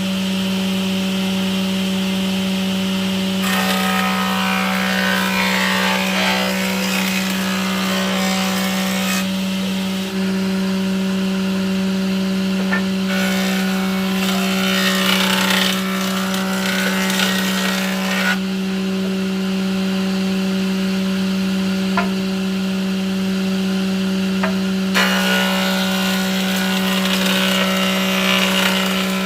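An electric power tool runs with a steady hum while it works wood. Three long passes add a coarse, scraping noise, with short breaks between them, and there are a few sharp clicks.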